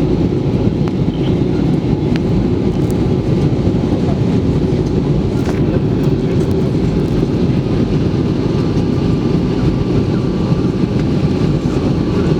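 Steady cabin rumble of an Airbus A320 in flight on approach: constant low engine and airflow noise with a faint steady whine, unchanging in level.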